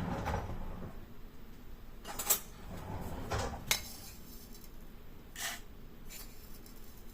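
Dishes and utensils being handled: a few light clinks and knocks, the sharpest about two seconds in, with quieter rustling and handling noise between.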